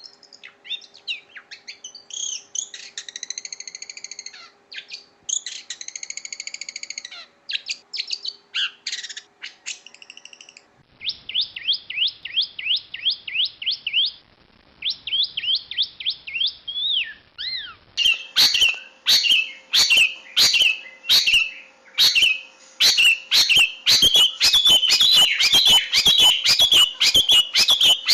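Long-tailed shrike (cendet) singing. It starts with a varied run of chattering and drawn-out notes. About a third of the way in it changes to a fast series of sweeping whistled notes. From about two-thirds in it gives a loud, rapid harsh chatter.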